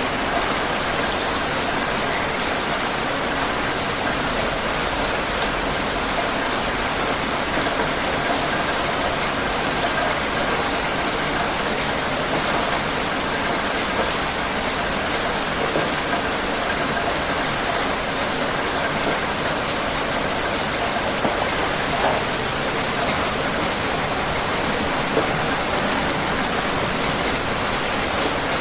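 Heavy rain falling steadily, an even hiss with scattered drop patters.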